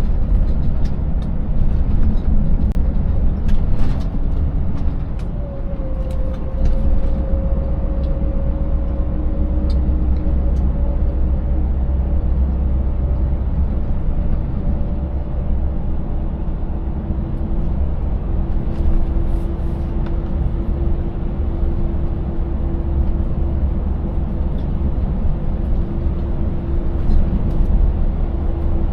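Scania 590S V8 truck engine running and road rumble while driving, a deep steady drone. Clicks and knocks come in the first few seconds, and a steady hum joins about four seconds in.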